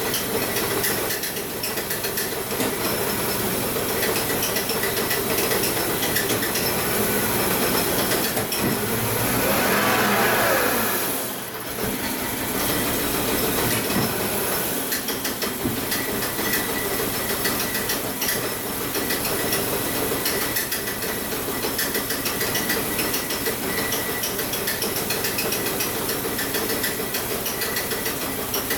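Volvo 850 T5's turbocharged inline-five engine running steadily with the hood open. It swells louder about ten seconds in, then dips briefly before settling back.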